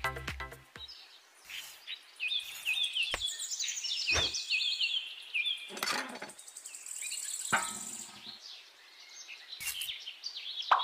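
Small birds chirping, short falling chirps repeated over and over, with a few sharp knocks about three, four and six seconds in.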